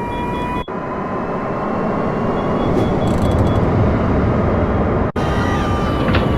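Airplane engine and cabin noise: a steady rumbling rush with a thin whine that slowly rises in pitch and a string of short high beeps. The sound cuts out abruptly for an instant twice, under a second in and about five seconds in.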